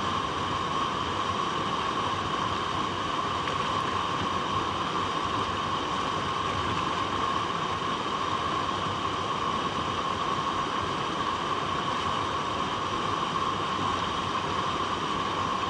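Water flowing steadily over rocks: a continuous, even rushing with no breaks or changes.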